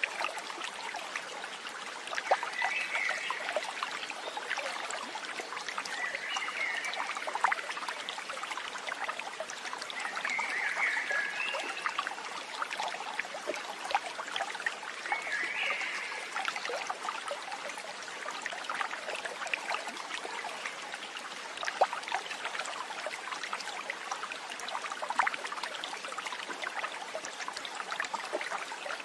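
Steady trickling and burbling of a running stream, with four short chirps in the first half.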